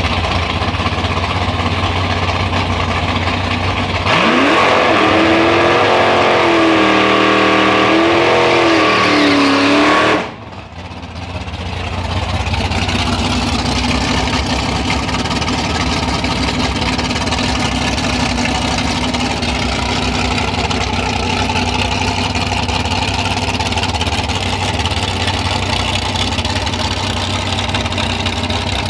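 Car engines at a drag strip. An engine idles, then is revved hard for about six seconds with its pitch wavering up and down, and the sound cuts off abruptly about ten seconds in. Steady idling follows.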